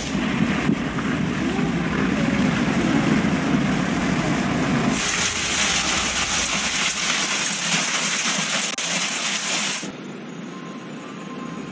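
Heavy hail pelting down, a dense steady hiss of many small impacts. About five seconds in the sound turns abruptly brighter and hissier, and near ten seconds in it drops much quieter.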